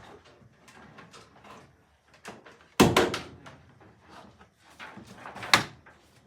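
Scattered knocks and clatter of handling gear, with two loud thuds, one about three seconds in and a second near the end.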